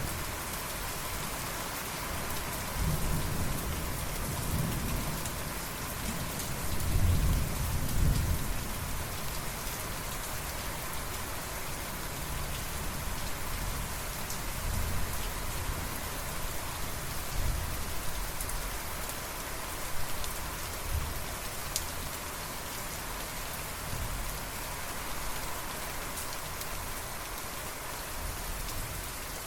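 Steady heavy rain falling on a surface, with low rolling thunder rumbling from about three seconds in, peaking around seven to eight seconds, and a few softer rumbles later.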